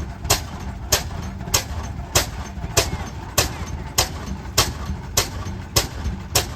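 Slow-running antique tractor engine firing, with a sharp, even exhaust pop about every 0.6 seconds over a low steady rumble.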